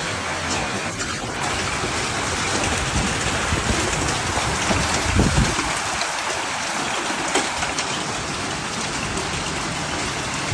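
Hailstorm: heavy rain and hailstones pelting down in a steady hiss with scattered sharp ticks, and a brief low rumble about five seconds in.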